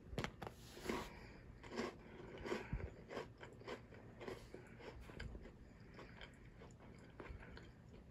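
A person biting and chewing a Kit Kat wafer bar with graham cracker, with crisp irregular crunches. The crunches are strongest over the first few seconds, then give way to lighter chewing.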